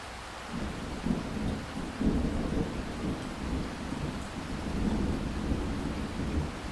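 Steady rain with a roll of thunder that rumbles in about half a second in, swells with sharper peaks around one and two seconds in, and keeps rolling low through the rest.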